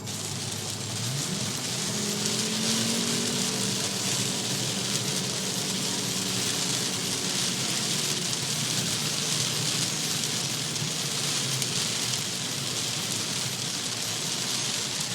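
Torrential rain pouring down in a loud, steady hiss. Underneath, a low engine hum rises in pitch about a second in and fades out after about eight seconds.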